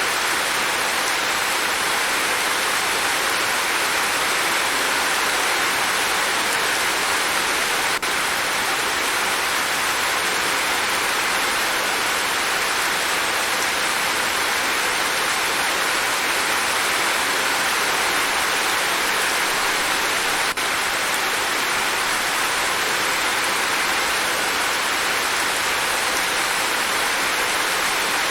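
Steady, dense rainfall: an even, unbroken hiss of rain coming down, with no thunder or separate drips standing out.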